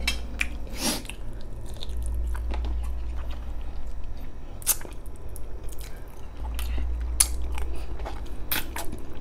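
Close-miked chewing and wet mouth smacks of a man eating braised pork spare ribs off the bone with his fingers, with scattered sharp clicks over a low hum; near the end he sucks sauce from his fingers.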